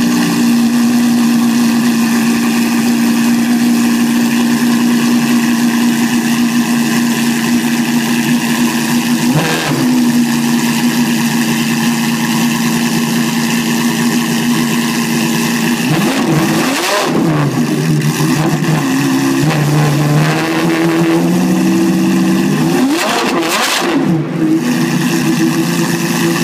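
Maserati MC12's V12 on a straight-pipe exhaust, idling steadily and almost unbearably loud. There is a short throttle blip about nine seconds in, and later two sets of revs that rise and fall.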